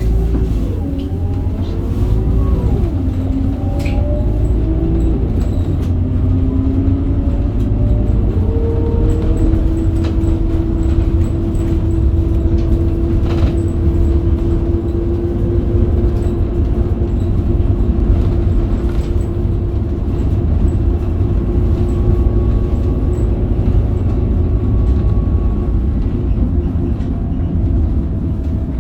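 Scania DC9 diesel engine of a Scania K270UB bus pulling up through the gears of its ZF Ecomat automatic gearbox. The engine pitch rises and falls back at each of two upshifts, about two and nine seconds in, then holds steady as the bus cruises. A few faint knocks sound over the engine.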